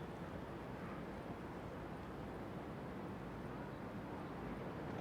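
Steady city background hum of distant traffic.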